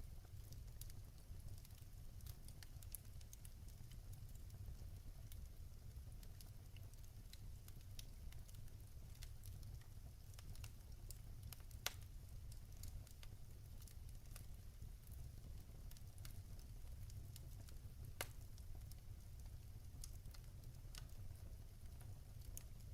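Wood fire crackling: scattered sharp pops and snaps of burning logs over a steady low rumble of the flames, with two louder pops, one about halfway through and one later.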